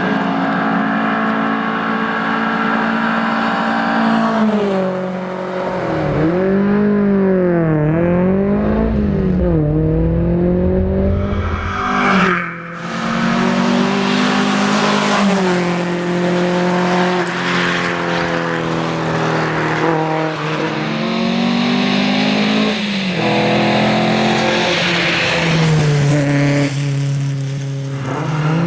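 1961 Volvo 122S rally car's four-cylinder engine running hard at rally pace. The revs hold steady for long stretches, swing up and down several times near the middle as the car is driven through a run of corners, and dip briefly a little before halfway, as at a gear change.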